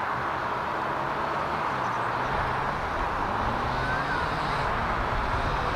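Jet engine noise from a Boeing 737 MAX 8's CFM LEAP-1B turbofans: a steady rush with a low hum underneath.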